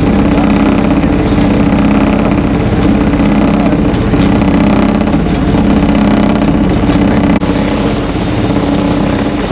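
A sailboat's engine running steadily under way, a loud, even drone.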